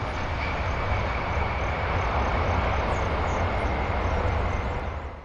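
Aircraft engine running steadily: a broad rumbling rush with a faint high whine held throughout. It cuts off suddenly near the end.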